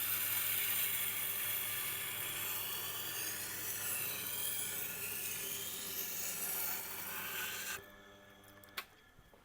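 Steel knife blade being ground on the rotating wheel of a Tormek T8 sharpener, a steady rasping hiss over the machine's low motor hum. The grinding stops about eight seconds in, and the motor hum ends with a click a second later.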